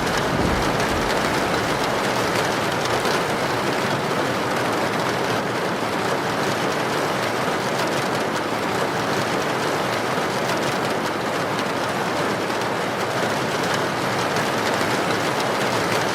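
Heavy rain falling with wind: a steady, dense hiss with no breaks or single events.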